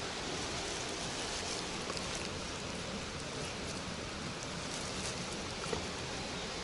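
Steady, even noise of water, with a few faint ticks.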